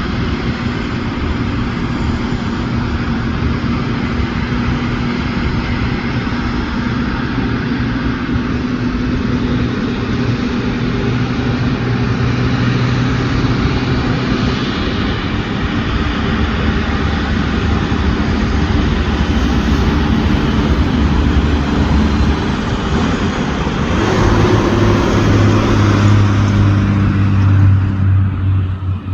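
Airbus A330 jet engines running with a loud, steady noise and a low hum; the low hum deepens and grows stronger about 24 seconds in, and the sound drops off just before the end.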